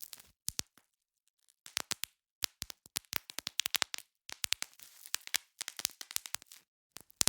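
Bubble wrap being popped by hand: irregular runs of sharp pops in quick succession, with a faint crinkling of the plastic between them and a short pause about a second in.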